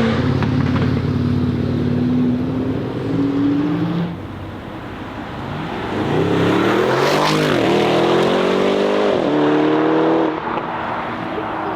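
Tuned Audi RS Q8's twin-turbo V8 through a loud aftermarket exhaust. It pulls steadily at first and eases off about four seconds in. Then it accelerates hard from about six seconds, its pitch climbing with a brief dip partway, and falls away when the throttle closes about ten seconds in.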